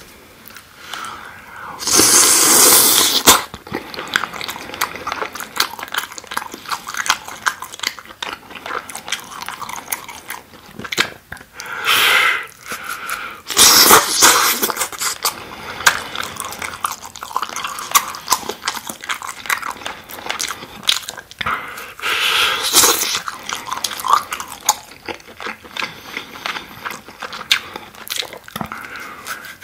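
Close-miked chewing and wet lip-smacking of sticky, sauce-glazed giant chicken skewers: fast wet clicks throughout, with louder bites and slurps about two seconds in, twice around twelve to fourteen seconds, and again a little after twenty-two seconds.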